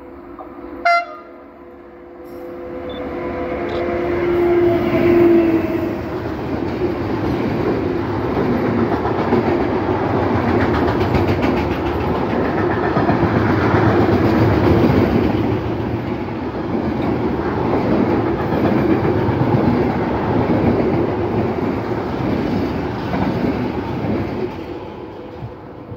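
An SNCF BB 27000 electric locomotive and a long freight train of tank containers passing at speed. A steady tone drops in pitch as the locomotive goes by about five seconds in, then the wagons rumble and clatter over the rails, fading near the end. A short, sharp sound comes about a second in.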